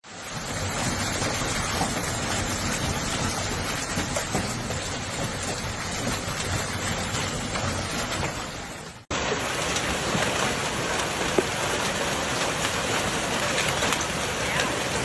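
Heavy storm downpour pelting down in a dense, steady roar, with scattered sharp ticks of hits among it. The sound cuts out for an instant just after nine seconds and comes straight back.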